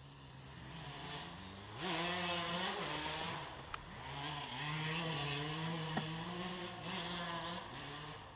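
Motocross dirt bike engines revving as they pass on the track, the pitch rising and falling with the throttle, loudest from about two seconds in and fading near the end.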